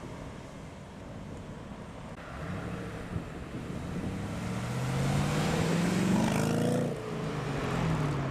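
A performance car's engine pulling away and passing, its note rising in pitch as it accelerates and growing louder, loudest about five to seven seconds in. It dips briefly near the end, then runs on.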